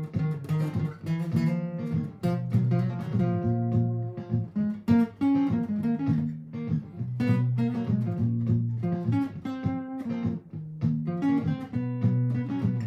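Martin GPCPA4 acoustic guitar played through a looper pedal: plucked and strummed notes over held low notes.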